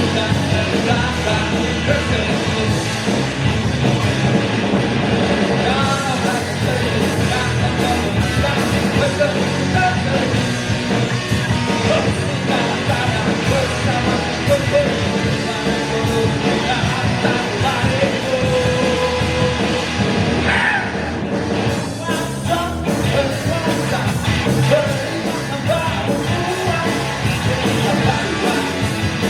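Live band playing an amplified rock-style song with a singer.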